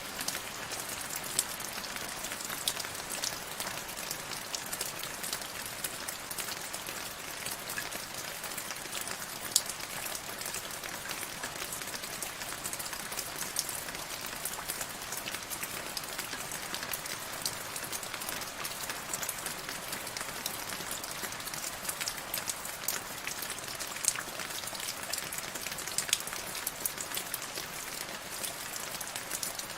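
Steady rain, a dense hiss sprinkled with many sharp, irregular ticks of individual drops landing close by.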